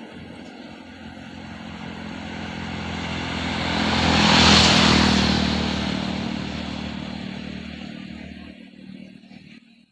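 Tata truck passing by on a highway: engine drone and tyre noise build to their loudest about four and a half seconds in, then fade as it moves away. The sound cuts off near the end.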